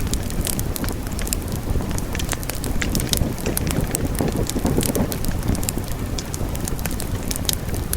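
Wood fire burning in a fireplace: frequent sharp, irregular crackles and pops over a steady low rush of the flames.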